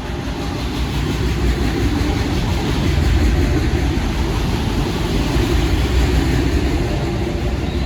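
Diesel freight train passing close by: the locomotive's low engine rumble and the wheels on the rails grow louder over the first few seconds, then hold steady.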